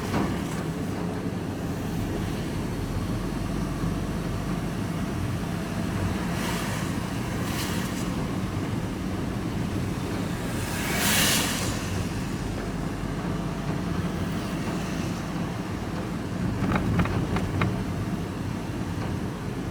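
Van driving along, heard from inside the cab: a steady low engine hum and road noise. There is a brief whoosh about eleven seconds in, like a vehicle passing.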